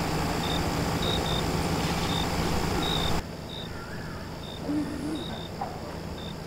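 Night-time outdoor ambience: crickets chirping in short high pips at an uneven pace over a steady low hum. The background hiss drops away about three seconds in.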